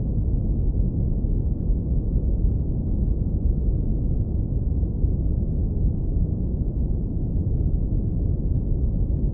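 Steady, deep rumbling brown noise, filtered down to the low end so that nothing bright or hissy is left, running without change.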